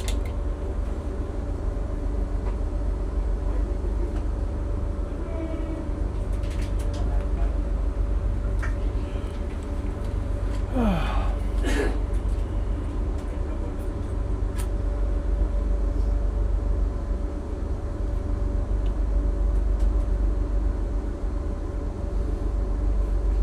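Passenger train running, heard from inside the carriage: a steady low rumble with a constant hum. A brief sliding squeal comes about eleven seconds in.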